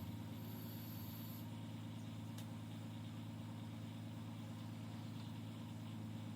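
A steady low machine hum with an even stack of tones, like a motor or engine running steadily, with a faint single click about two and a half seconds in.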